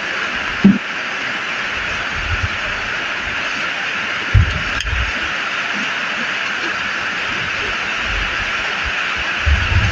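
Steady rain falling, an even hiss throughout, with a few dull low thumps.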